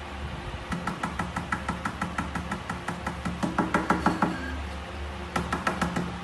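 A rapid run of sharp taps, about eight a second, growing louder toward its end, then a second short run near the end.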